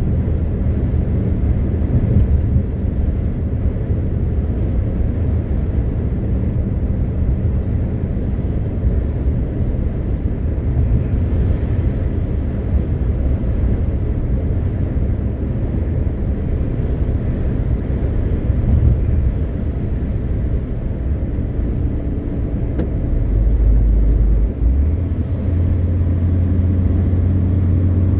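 MAN TGX 520 truck under way, its 12.4-litre straight-six diesel giving a steady low drone mixed with road rumble. About two-thirds of the way in there is a brief louder low rumble, after which the engine settles into a steadier hum.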